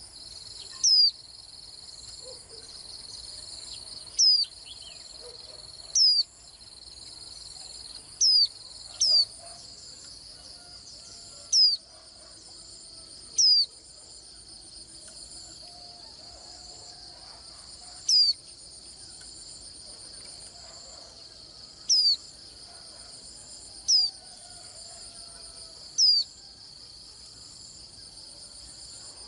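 White-eye giving about a dozen short, thin calls that slide sharply down in pitch, spaced roughly two seconds apart, over a steady high insect trill.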